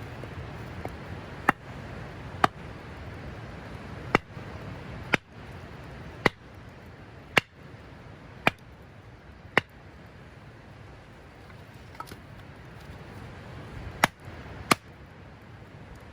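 A series of sharp, hard knocks, about one a second, about ten in all, pausing for a few seconds before the last two strikes, struck blows on a firm object.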